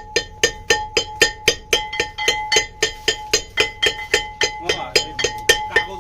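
Background music: a steady percussive beat of about four strikes a second with a bell-like ringing tone.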